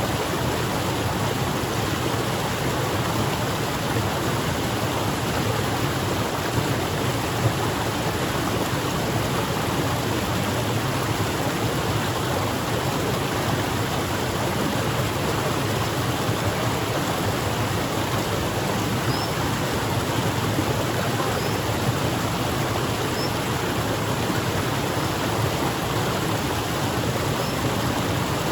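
Waterfall: a steady, full rush of falling water that does not change.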